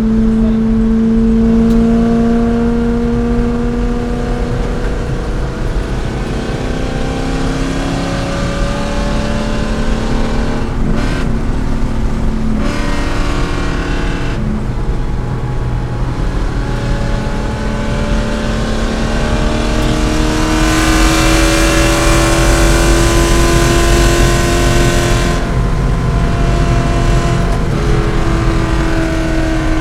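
C5 Corvette's V8 running hard under racing load. Its note falls and rises with throttle and gear changes, with brief breaks about halfway through and a long climb in pitch a little after two-thirds of the way in.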